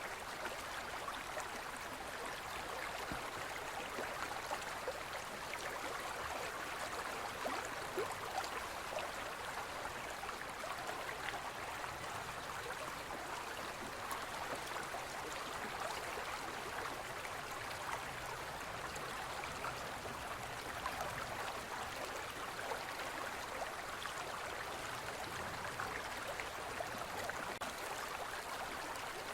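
Forest stream flowing over rocks: a steady babbling and gurgling of water.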